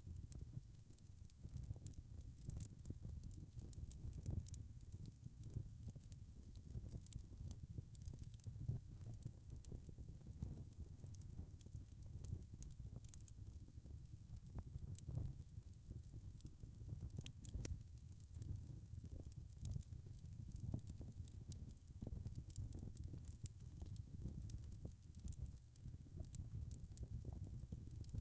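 Wood fire crackling: frequent small, sharp pops and crackles scattered irregularly over a steady low rumble of the burning fire.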